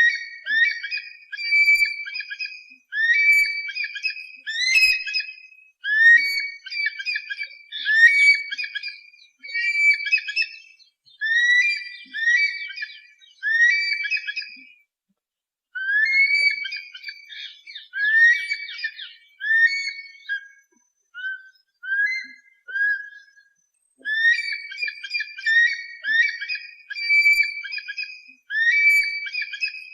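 A bird of prey giving shrill whistled calls, in quick groups of a few notes every second or two. The calls pause briefly about halfway through and are softer for a few seconds afterwards.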